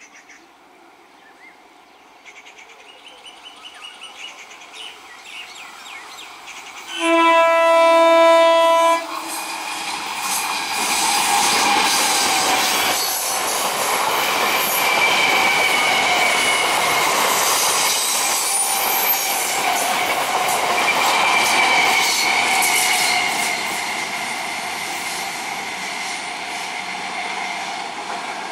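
Indian Railways EMU local train approaching, sounding its air horn once for about two seconds, then passing close with a loud roar, wheels clattering over the rail joints and squealing on the curve.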